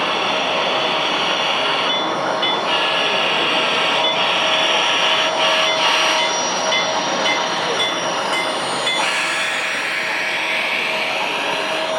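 Model train running on a layout's track, a steady running sound with a few faint steady tones over it.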